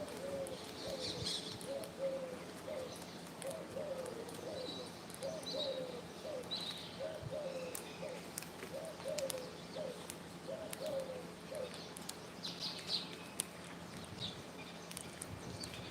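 Pigeon cooing, a run of short low notes repeated over and over, stopping about three-quarters of the way through. Scattered higher bird chirps sound throughout.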